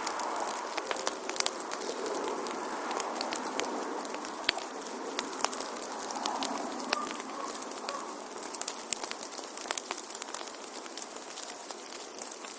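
Wood fire crackling in a fireplace: many irregular sharp pops and snaps over a steady rush of flames.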